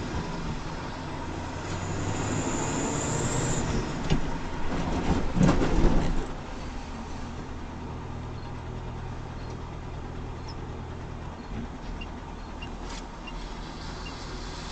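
Road vehicle's engine running steadily over road noise, with a louder stretch of knocks and rattles from about four to six seconds in.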